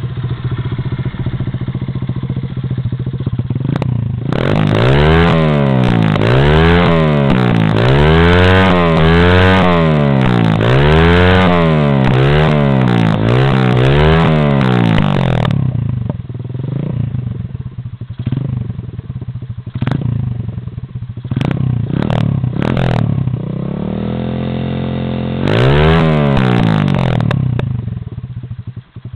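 125cc pit bike's single-cylinder engine idling, then revved up and down over and over, about once a second for some ten seconds. It drops back to a low, uneven run with a few sharp clicks, then is revved up once more near the end.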